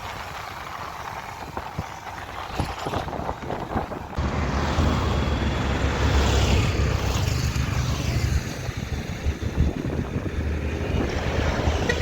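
Wind buffeting the microphone of a rider on a moving electric scooter, mixed with the noise of highway traffic. About four seconds in it grows much louder, with a heavy low rumble.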